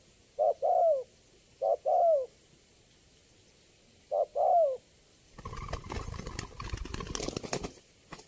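Spotted dove (tekukur) cooing: three two-part coos, each a short note followed by a longer falling one. About five seconds in, some two and a half seconds of rustling, clattering noise.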